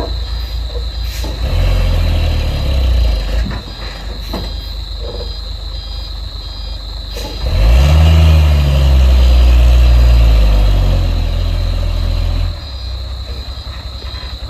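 Heavy diesel vehicle engine revving up under load twice, briefly at first, then a longer rise about halfway through that holds for several seconds before dropping back to idle.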